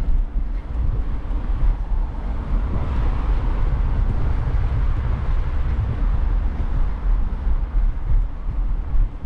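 Wind buffeting a bike-mounted camera's microphone during a ride, a loud, unsteady low rumble mixed with the hiss of rolling tyres.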